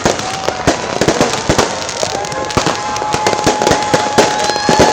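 Fireworks and firecrackers going off in rapid, irregular bangs. From about halfway in, a long steady high tone is held over them.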